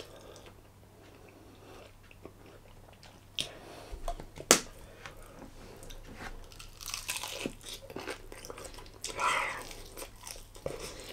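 Biting into a charred, crispy-skinned BBQ chicken thigh and chewing it, with crunches and mouth noises starting a few seconds in.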